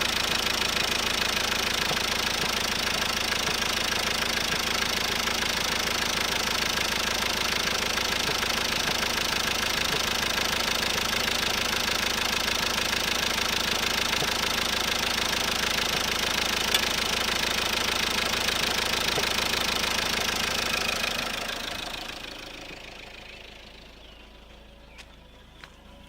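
Engine running steadily, with the knocking and popping in the exhaust that the owner is recording as a fault. The sound fades away over a few seconds near the end.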